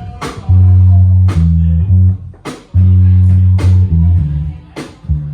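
Live band playing a loud, prominent bass guitar line of short repeated low notes, with a drum hit on a steady beat about once a second.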